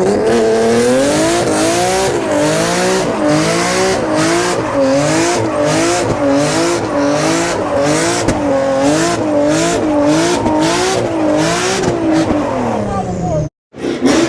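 A car engine revving high. Its pitch rises and dips in an even wave about every three-quarters of a second, then falls away before the sound cuts off abruptly.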